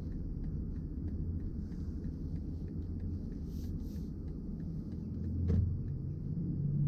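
Low, steady road and tyre rumble inside the cabin of a BMW i4 M50 electric car on the move, with a single short knock about five and a half seconds in.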